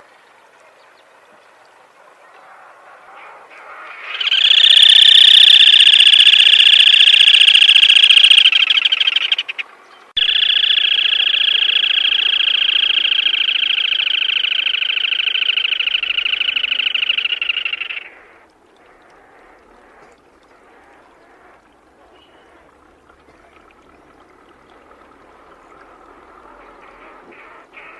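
Black-tailed crake giving two long, rapid trilling calls, the first louder, with a brief break between them.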